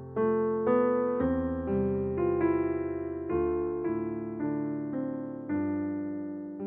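Slow, gentle piano music: chords and single notes struck one after another, each ringing and fading.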